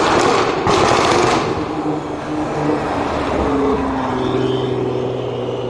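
A car engine revving loudly for the first second and a half, then running on at a lower, steady pitch that settles further about four seconds in.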